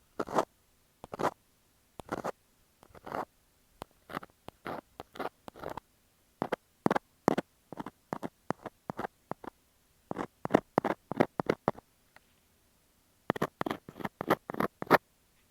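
A metal ear scaler scrapes and scratches directly on an earphone microphone in short irregular strokes. Some strokes come in quick runs, with brief pauses about six seconds in and again near the end.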